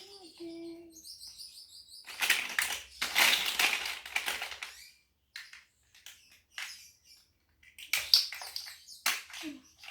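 Plastic Lego bricks being handled: a dense rattling rummage through loose pieces for a few seconds, then scattered sharp clicks and taps as pieces are picked out and fitted.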